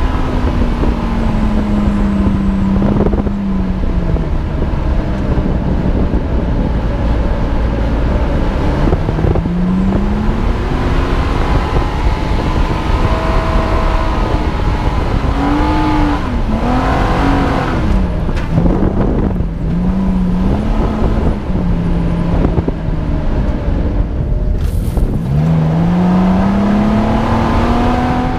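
Nissan Xterra's engine revving up and down as it drives over sand dunes, its pitch falling at first, wavering in quick swells in the middle and climbing hard near the end, under a heavy rumble of wind on the microphone.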